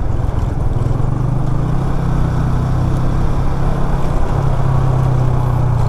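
Motorcycle engine running steadily while riding, heard over wind and road noise. The engine note dips briefly about four seconds in, then steadies again.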